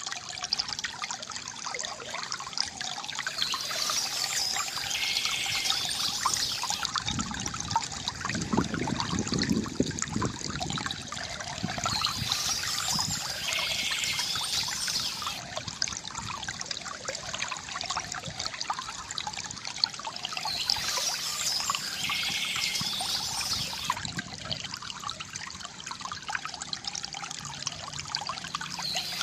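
A small stream trickling and gurgling steadily, louder and deeper for a few seconds near the middle. Birds sing in short spells that come back about every eight or nine seconds.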